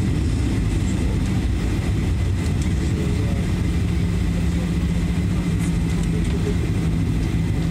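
Steady low rumble of a Boeing 737-900ER's cabin with its CFM56 engines running, joined about three and a half seconds in by a steady low hum.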